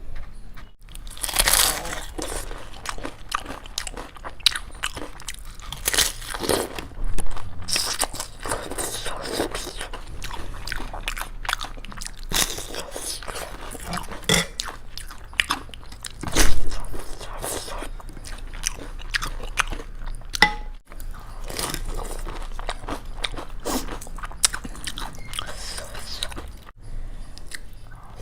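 Close-miked eating of crisp fried Indian snacks: irregular crunchy bites and chewing, with the loudest crunch about two-thirds of the way through.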